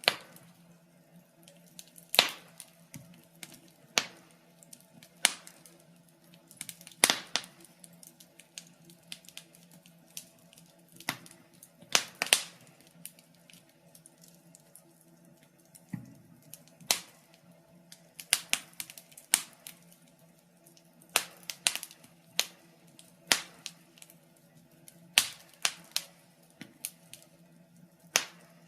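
Wood fire burning in a fireplace, crackling with irregular sharp pops and snaps, a few louder than the rest, over a faint steady low hum.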